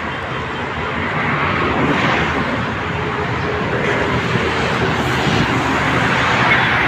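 Steady rushing background noise with slow swells in level, like traffic or a running engine heard from a distance.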